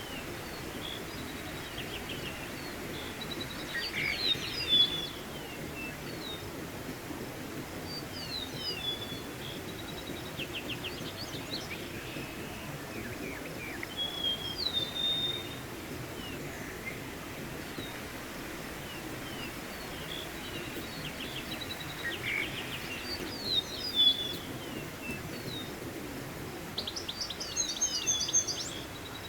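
Wild birds chirping and trilling in short bursts over the steady rush of a mountain stream.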